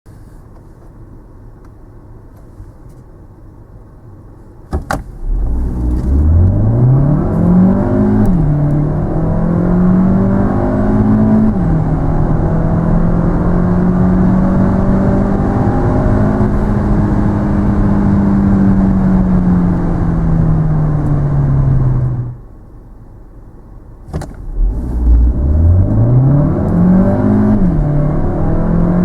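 Volkswagen Touran 1.4 TSI's turbocharged four-cylinder petrol engine at full-throttle acceleration. After a few seconds of low idle and a click, the pitch climbs steeply, drops sharply twice as the dual-clutch gearbox changes up, then holds and slowly sags before the throttle is closed. A second run starts near the end with the same steep climb and a quick upshift.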